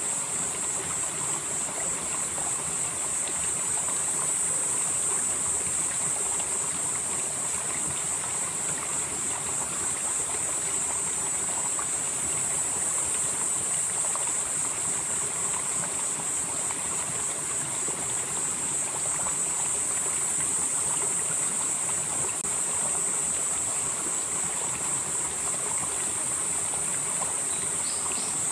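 A valley stream flowing steadily over rocks, with an even rushing sound. A steady high-pitched buzz sits above the water, swelling and easing slowly every several seconds.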